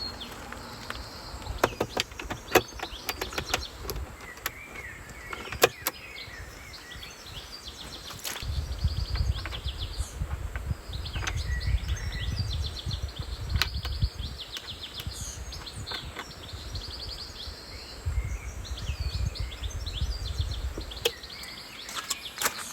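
Small birds chirping and trilling in woodland, with scattered sharp clicks and knocks. A low rumble comes in about a third of the way through and fades near the end.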